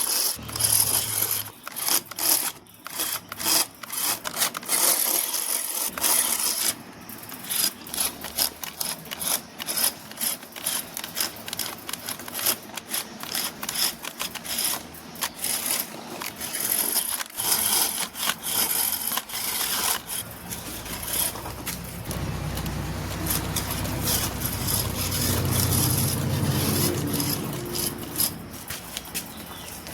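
Small electric RC vehicle motors and gearboxes running, with a constant crackle of clicks and scraping as the vehicles work over rough ground. A low motor hum swells for several seconds in the second half.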